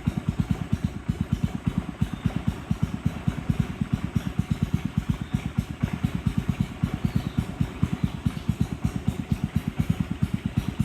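Boat engine running steadily with a low, even chug of about six beats a second.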